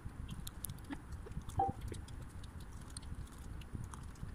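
Close-up chewing of fish balls, soft wet mouth sounds with small irregular clicks. One brief louder sound about a second and a half in.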